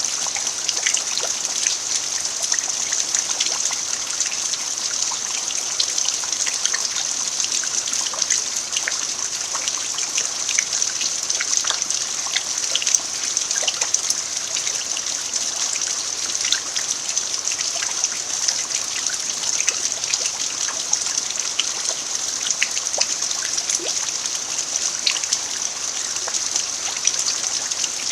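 Steady rain falling on a dirt yard, an even hiss scattered with many small drop ticks.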